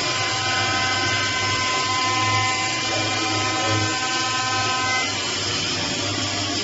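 5-axis CNC wood lathe running: a steady motor whine with several held tones over a low hum and a noisy rush, some of the tones dropping out about five seconds in.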